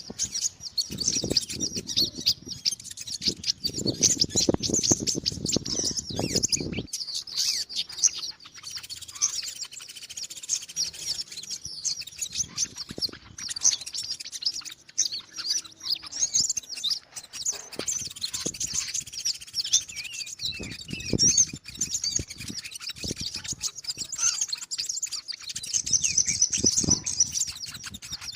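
Sunbird known in Indonesia as kolibri ninja (konin) calling: rapid, high-pitched chirping and twittering that goes on without a break, the call used to lure these birds in the wild. A low rumbling noise runs under it for the first seven seconds or so and returns in the second half.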